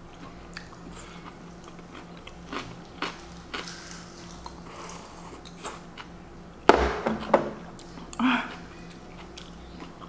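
Close-up chewing and mouth sounds of someone eating with chopsticks, with small scattered clicks. A sharp knock comes about two-thirds of the way in as a small dish is set down on the table, then a second knock and a brief hum.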